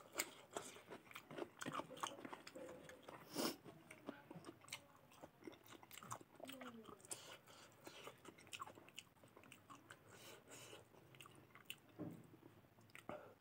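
Faint close-up eating sounds: wet chewing and lip smacks of hand-eaten rice and mutton curry, with scattered small clicks and a sharper crunch about three and a half seconds in.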